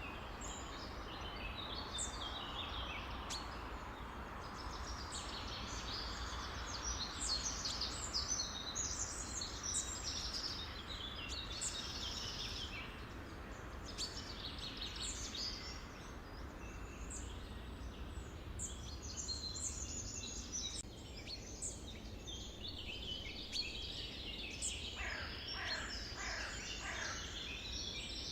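A chorus of many songbirds chirping and singing over each other, over a steady low background rumble. Near the end comes a quick series of calls that each slide downward in pitch.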